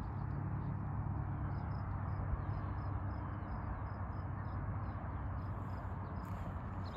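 A bird repeats short high chirps, about three or four a second, over a steady low background rumble.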